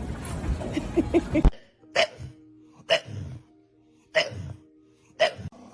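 A loud, noisy stretch with a few knocks cuts off abruptly about a second and a half in. Then come four short, sharp hiccups about a second apart, over a faint steady musical tone.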